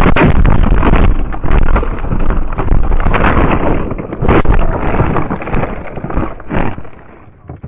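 Loud, distorted rumbling with irregular knocks, like wind buffeting an overloaded microphone; it dies away about seven seconds in.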